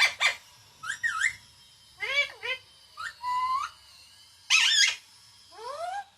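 A pet parrot giving a string of short, high whistled calls, some gliding up in pitch and one held briefly, about seven in all.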